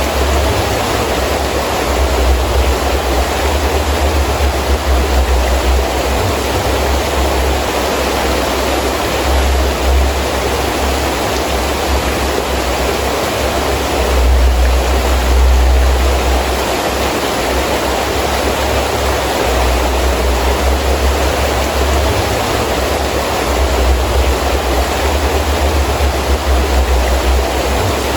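Heavy rain falling steadily, with gusting wind adding a low rumble that swells and eases several times, strongest about halfway through.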